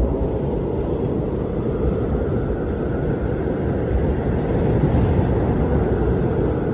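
Howling wind: a steady low rushing with a faint higher whistle that swells a little around the middle.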